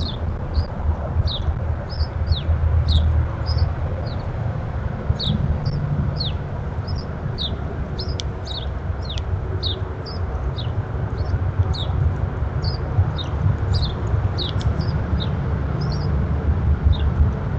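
Small birds calling: short, high chirps that slide downward, repeated about twice a second, over a steady low rumble.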